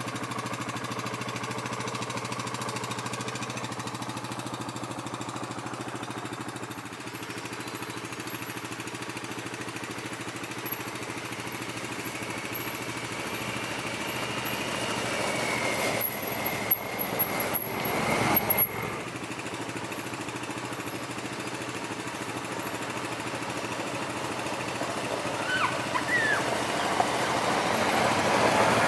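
Yamaha Grizzly 700 ATV's single-cylinder engine running steadily as it climbs a steep, loose gravelly trail. A short cluster of knocks and rattles comes a little over halfway through, and the engine grows louder near the end.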